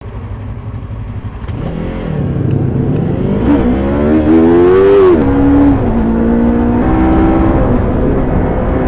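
Yamaha YZF-R3's stock 321 cc parallel-twin engine pulling hard. Its pitch climbs, drops sharply about five seconds in as it shifts up a gear, then holds fairly steady with smaller steps after.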